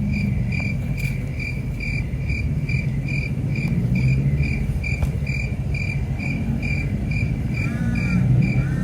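Cricket chirping steadily, about three even chirps a second, over a low rumble, with two short arched chirps near the end.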